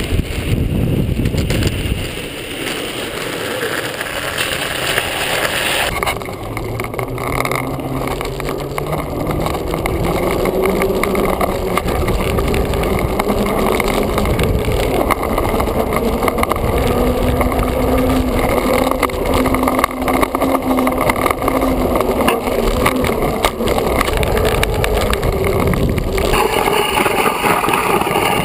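Buttboard with oversized wooden trucks rolling on pavement: a continuous rolling roar from the wheels, with a low hum that rises in pitch as the board picks up speed. The sound changes abruptly a few times.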